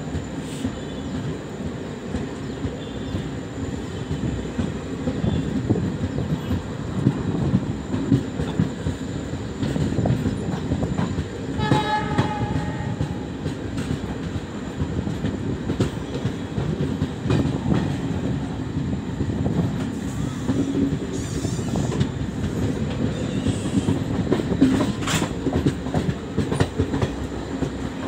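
Passenger express train running at speed, heard from on board: a steady rumble with wheels clattering over rail joints. About twelve seconds in, a short horn sounds for about a second.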